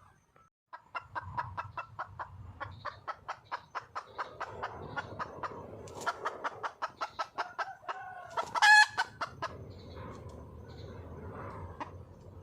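Red junglefowl hen clucking in a fast, even series of short notes, about five a second. About two-thirds of the way in comes a single much louder, higher call, then softer clucks. It is a hen's call for a mate.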